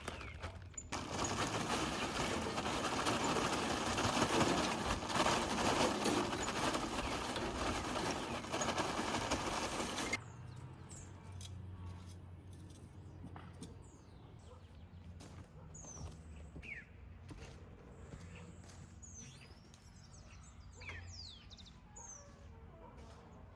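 A loud, steady hiss starts about a second in and cuts off abruptly after about nine seconds. Then comes quieter ambience with scattered bird chirps and calls.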